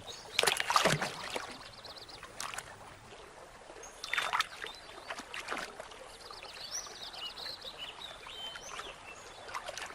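Water splashing and lapping as river otters move in a stream, in a few short splashes over a low trickle. Some high, twittering chirps come through once near the start and again near the end.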